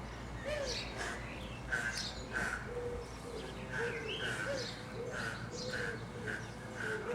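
Birds calling: a string of short repeated notes, roughly one or two a second, mixed with higher chirps and lower rising-and-falling notes.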